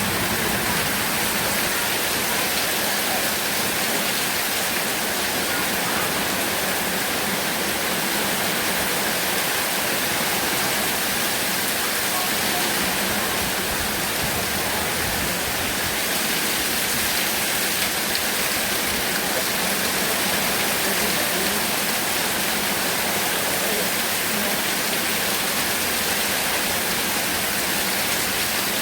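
Heavy rain pouring steadily, a dense, even hiss without breaks.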